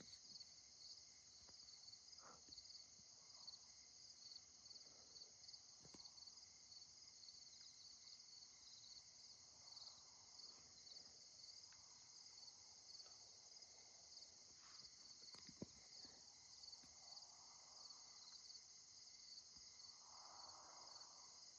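Faint, steady chorus of crickets chirping in an even, pulsing rhythm, with a single small tick about two-thirds of the way through.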